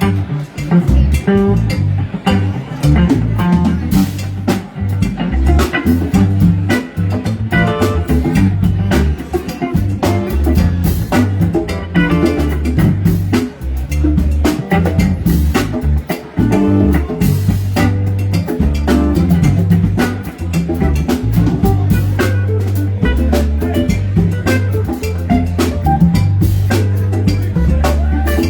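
Live rock band playing an instrumental passage: electric guitar, bass guitar and drum kit, with a steady beat and a prominent bass line.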